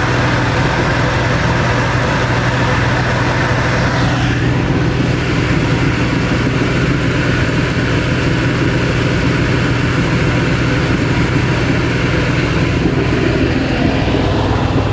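Vehicle engine running steadily at an even pitch, with a rushing noise over it that eases about four seconds in.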